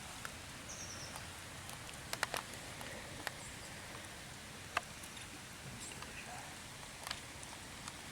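Faint outdoor ambience with a few scattered light clicks and taps, and one brief high chirp about a second in.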